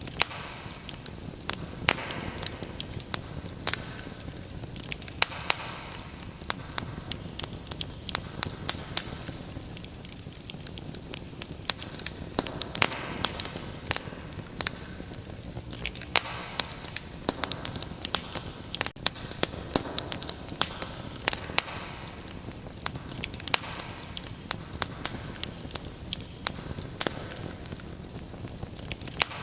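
Wood fire crackling: frequent sharp, irregular pops and snaps over a soft steady rumble of burning.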